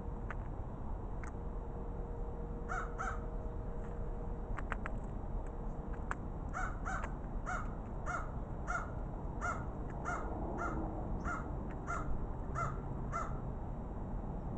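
Crow cawing: a pair of caws about three seconds in, then a steady run of about a dozen caws at roughly two a second.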